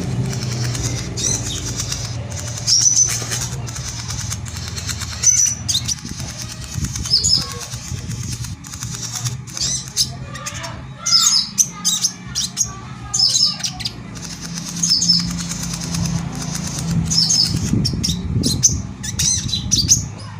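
Sogon (crested jay) calling: many short, sharp, high chirps in irregular clusters, over a low steady hum.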